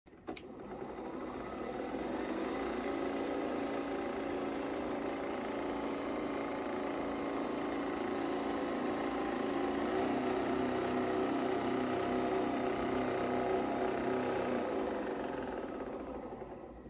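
Steady mechanical whirring of a small motor, building up over the first two seconds and fading out near the end.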